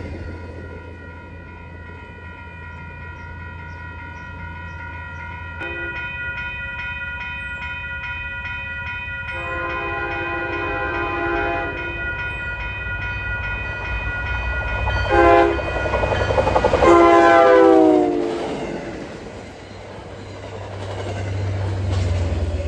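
Railroad crossing bell ringing steadily as a commuter train approaches and sounds its horn: a long blast, a short one, then a long blast that drops in pitch as the train passes. The locomotive's low rumble runs underneath.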